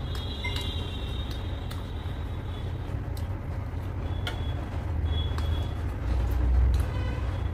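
Close-miked chewing of soft luchi and mutton curry over a steady low rumble that swells near the end.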